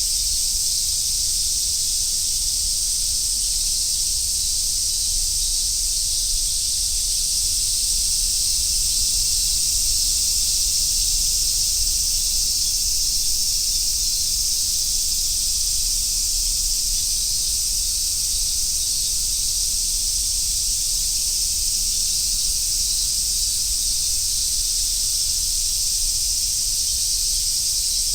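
Chorus of summer cicadas, a dense, steady, high-pitched drone that holds without a break, with a low rumble underneath.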